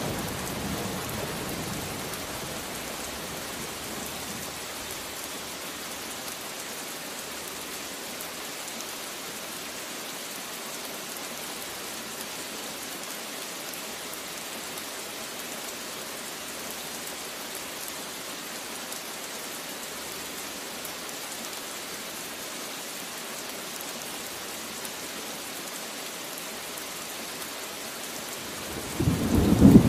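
Steady rain falling, an even hiss. A rumble of thunder dies away in the first second or so, and a new roll of thunder builds up near the end.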